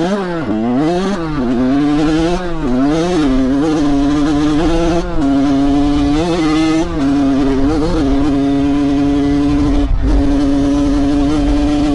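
Dirt bike engine under riding load, revving up and down with the throttle for the first few seconds, then held at high, steady revs with brief drops about five, seven and ten seconds in.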